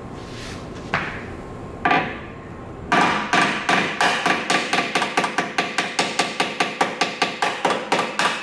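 Hammer striking the sheet metal of a car's collision-damaged front end. Two single blows, then a fast run of about four to five blows a second, each with a short metallic ring, which stops suddenly.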